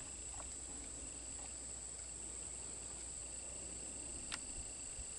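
Steady high-pitched chirring of crickets, with one faint click about four seconds in.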